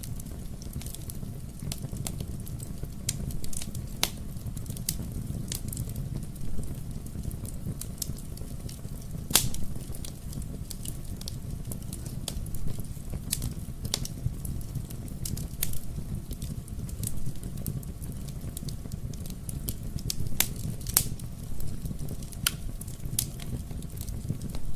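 Wood fire burning in a fireplace: a steady low rumble of the flames with sharp, irregular crackles and pops, one louder pop about nine seconds in.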